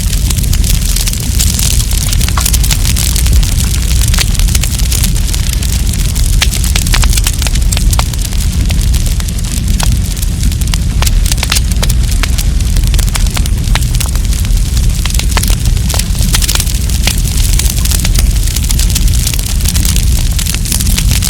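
Wood campfire crackling and popping, with many sharp irregular snaps over a steady low rumble of the burning fire.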